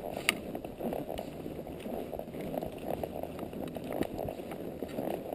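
Palomino Quarter Horse walking on a rocky trail, hooves clopping unevenly and knocking on loose stones, with one sharp click shortly after the start.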